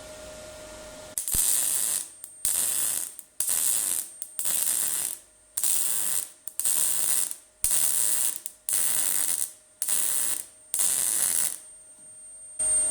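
MIG welder with 0.6 mm wire laying stitch welds on the steel edge of an MGB GT tailgate: about ten short bursts of crackling arc hiss with brief pauses between them, starting about a second in. The welds are kept short, one after another, to add material to the edge without distorting the panel or blowing holes.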